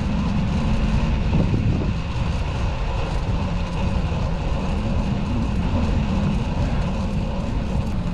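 Steady wind rush and rumble on the microphone while riding a fixed-gear bicycle through city traffic.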